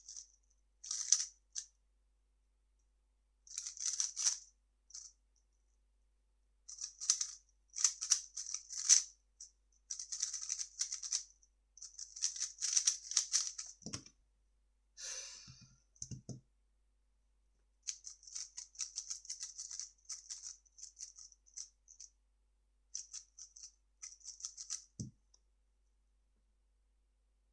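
3x3 speedcube being turned fast by hand: rapid plastic clicking and clacking in bursts with brief pauses between them. A few dull thumps come near the middle and again near the end.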